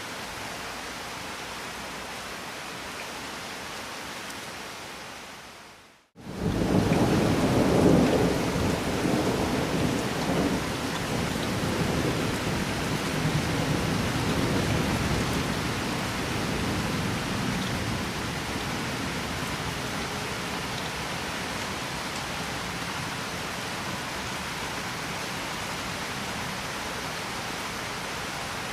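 Steady rain that fades out briefly about six seconds in, then comes back with a long rumble of thunder that peaks soon after and dies away over about ten seconds while the rain goes on.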